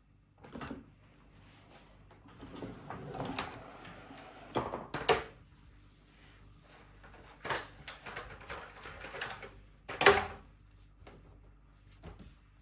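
Household objects being handled: a string of knocks and clunks with short rustling stretches, the loudest knock about ten seconds in.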